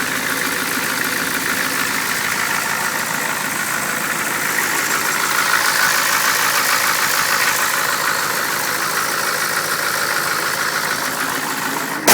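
Ford 6.9 L IDI naturally aspirated V8 diesel idling steadily, heard from the open engine bay; it swells slightly louder in the middle.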